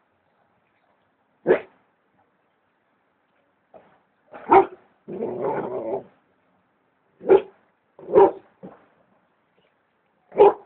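A dog barking at a large snake it is confronting: about five sharp, spaced-out barks, with a longer rough growl shortly after the second bark.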